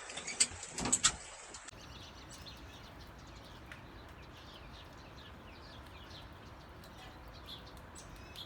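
A few sharp clicks or knocks, then after about a second and a half a faint hiss with many short, quick bird chirps throughout.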